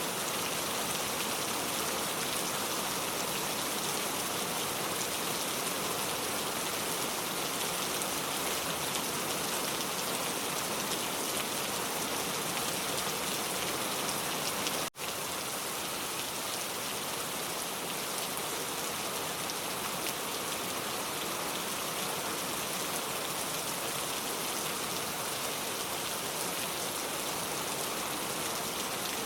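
Steady rain falling on a car, a dense even patter of drops. The sound cuts out for an instant about halfway through, then carries on unchanged.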